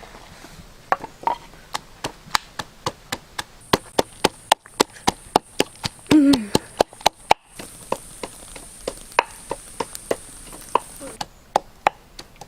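Repeated sharp chopping strokes on wood, about four a second, with a short break about seven and a half seconds in before slower strokes resume.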